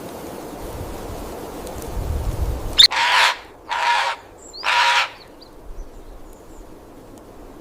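Three loud, harsh, caw-like bird squawks in quick succession, each about half a second long, over a soft steady background hiss. A low rumble swells just before the first call.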